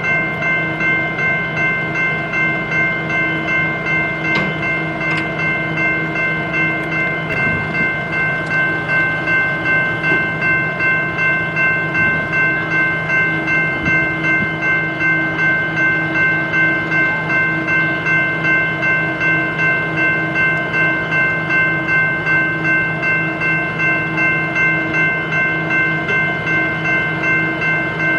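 Stopped BNSF diesel locomotives idling, a steady throb pulsing about twice a second under a constant high whine of several held tones.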